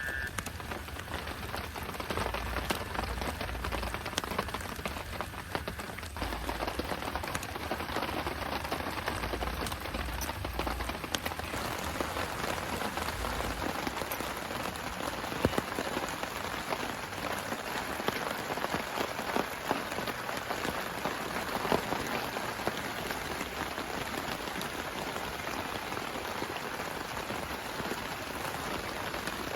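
Steady rain falling, a dense patter of drops with a few louder single hits now and then.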